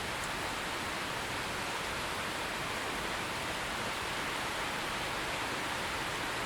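Steady rain falling: an even, dense hiss that holds the same level throughout, with no thunder or other events.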